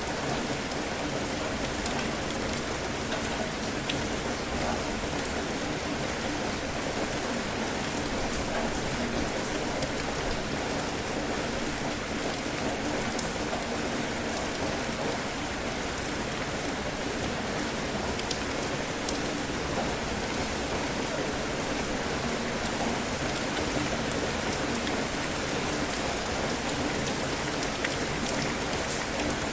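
Steady rain falling, a constant even hiss with scattered drops ticking on a surface.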